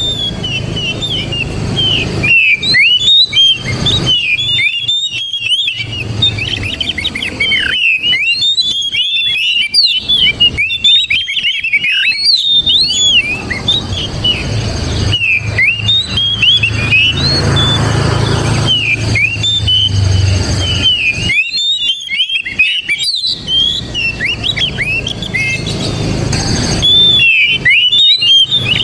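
Oriental magpie-robin (kacer) singing a continuous, varied run of quick whistled notes and chirps, broken by a few short pauses.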